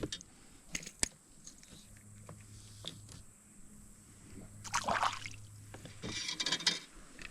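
Creek water sloshing and splashing close by, with a couple of light clicks near the start and two louder splashy bursts in the second half, the last a quick flurry of splatters.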